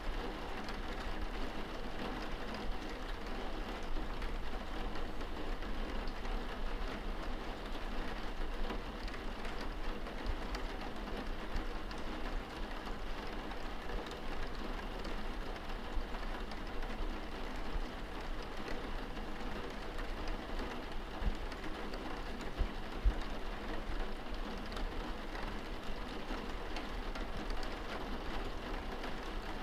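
Steady rain heard from indoors, pattering on window glass, with scattered individual drop taps and the occasional low thump.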